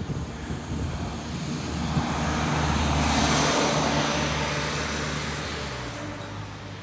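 A motor vehicle passes by, its engine hum and tyre noise swelling to a peak about three seconds in and then fading away.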